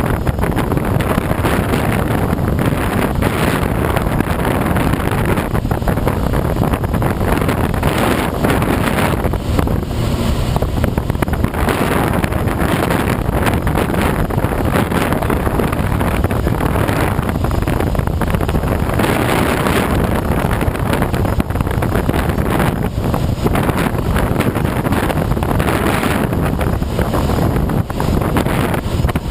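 Steady, loud rush of airflow and wind noise around a Schweizer 2-33A glider's cockpit during aerotow.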